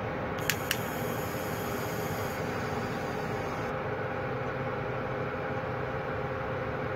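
Locomotive cab noise of a moving train: a steady rumble with a constant hum. Two sharp clicks about half a second in, then a high hiss that lasts about three seconds.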